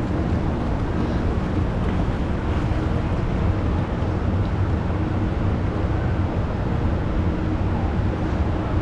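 Steady low motor rumble with a faint even hum, no distinct events.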